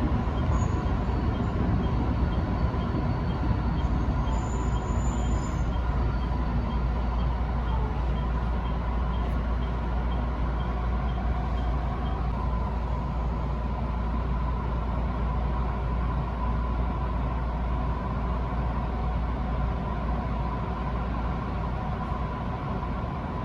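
Electric commuter train running, heard from inside the front of the train: a steady low rumble of wheels and motors with a faint hum. A faint regular ticking of about two or three a second runs through the first half, and the sound slowly gets quieter.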